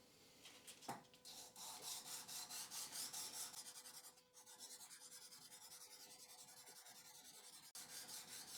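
A metal part rubbed back and forth by hand on very fine 3000-grit abrasive laid flat on a marble slab, in quick scratchy strokes that settle into softer, steadier rubbing about halfway through. This is the final fine polishing of an engraved face.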